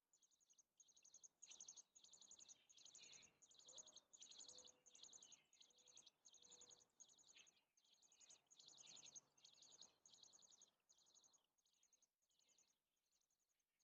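Faint, high-pitched buzzy calls from American robin nestlings begging at the nest, repeated about twice a second and fading away near the end.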